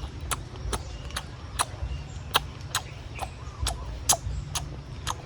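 Cashew nuts being crunched while eaten: sharp, irregular clicks about twice a second over a steady low rumble.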